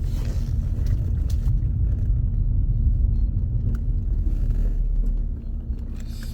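Car interior rumble while driving: a steady low drone of engine and road, easing off about five seconds in as the car slows.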